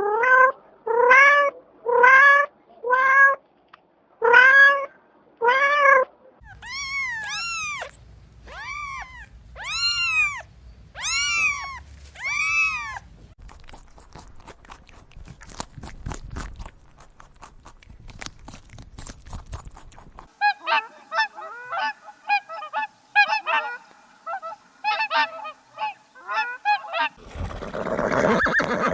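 A run of different animal calls, one after another. First come six repeated pitched calls, then higher arched calls, then a stretch of clicking, then rapid chirps, and near the end a noisy rasping sound.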